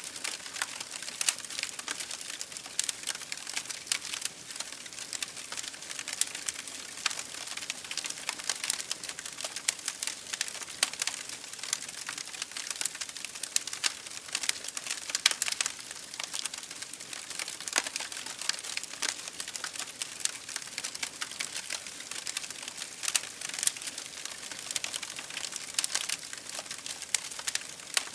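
Wood fire burning in an open fireplace, crackling continuously with dense, irregular pops and snaps over a soft hiss.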